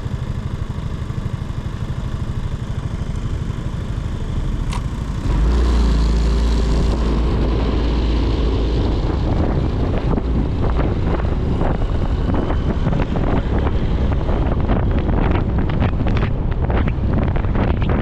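Motorcycle engine running steadily at low revs, then pulling away with a jump in loudness about five seconds in. Wind buffeting on the microphone builds as the bike picks up speed.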